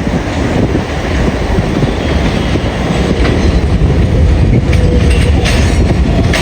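R142A subway train running along the track with a steady low rumble that grows louder. From about two-thirds of the way in, its wheels click sharply over rail joints.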